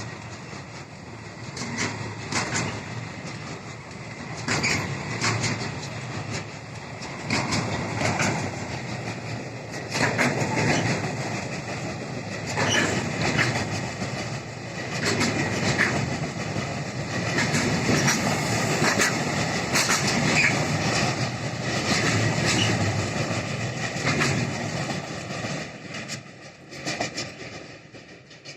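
Intermodal container freight train rolling past, its wagon wheels clicking and knocking over the rail joints over a steady rumble, then dying away near the end as the train moves off.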